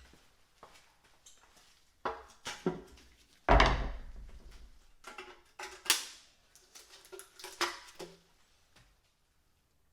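Metal clanks and rattles of engine parts and tools being handled during an engine teardown. The loudest is a heavy clunk with a ringing tail about a third of the way in, among lighter knocks and clinks over about nine seconds.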